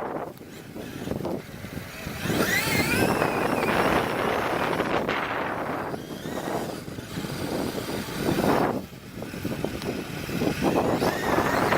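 Traxxas E-Revo brushless RC truck driving hard in bursts: the high whine of its electric motor rising and falling in pitch as it speeds up and slows, over rough tyre noise.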